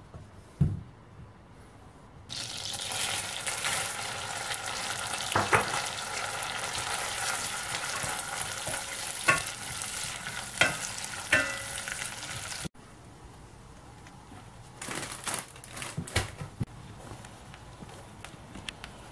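Almond slices frying in melted butter in a stainless steel pot: a steady sizzle that starts about two seconds in and cuts off suddenly a little past halfway, with a wooden spoon stirring and knocking against the pot. There is a single thump near the start, and a few more quieter knocks of the spoon near the end.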